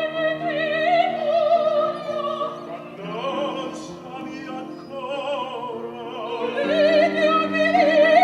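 Operatic singing by a high voice, most likely the soprano, with wide vibrato over piano accompaniment. The voice holds long notes, eases off about halfway through and swells again near the end.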